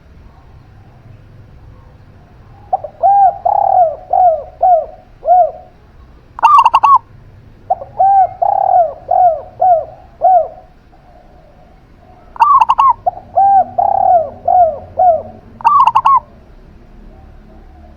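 Zebra dove and spotted dove cooing, in three loud phrases. Each phrase has short, sharp high notes followed by a run of rounded, rhythmic coo notes.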